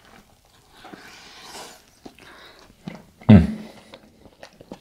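Close-up biting and chewing of a soft taco. There is one loud, brief low sound about three seconds in.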